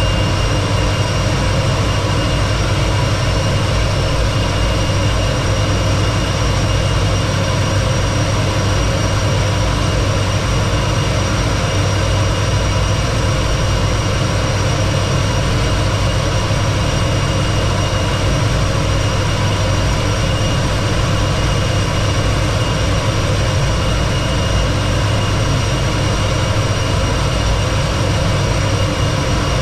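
T-33 jet trainer's Allison J33 turbojet running steadily: a deep rumble with a constant high whine over it.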